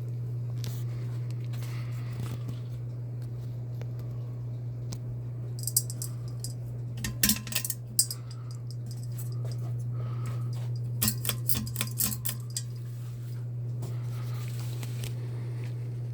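Bahama 42-inch ceiling fan running with a steady low hum. Two spells of light metallic clinking and jingling come over it, the first about six seconds in and the second about eleven seconds in.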